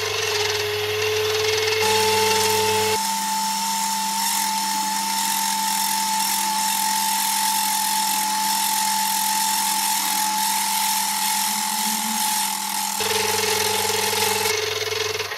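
Metal lathe running under power while a steel part on its faceplate is faced off: a loud, steady mechanical whine. The whine starts suddenly, steps up in pitch about two seconds in, and drops back near the end.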